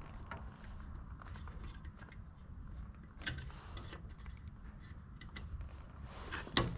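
Faint scattered clicks and taps of hands working at a tractor headlight bulb and its retaining clip, over a low steady rumble.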